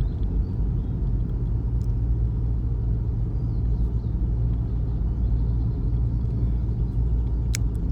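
Steady low rumble of a car driving along the road, the engine and tyre noise heard from inside the cabin.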